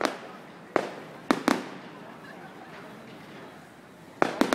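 Fireworks going off in sharp bangs, each trailing off in a short echo. One comes right at the start and three more follow within about a second and a half; after a lull, three come in quick succession near the end.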